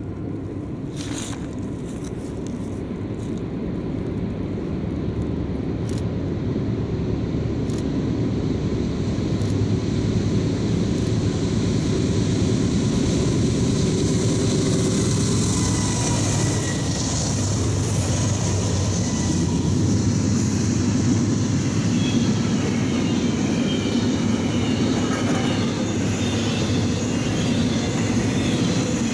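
Norfolk Southern diesel locomotives at the head of a double-stack intermodal train approach and pass, the rumble growing louder over the first ten seconds or so. The steady rolling rumble of the loaded container well cars going by on steel wheels follows.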